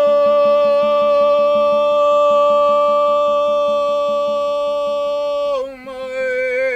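Background music: one voice holds a long sung note that slides up into place, stays steady for about five seconds, then wavers near the end, over a quick, even, soft pulse.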